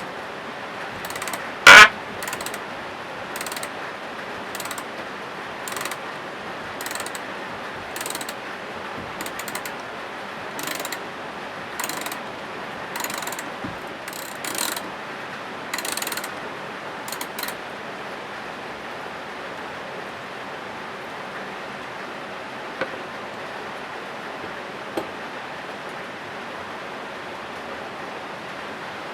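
A hand tool worked in short strokes: one sharp loud click, then about fifteen brief ratcheting rasps roughly a second apart, which stop about two-thirds of the way through. A steady hiss runs underneath.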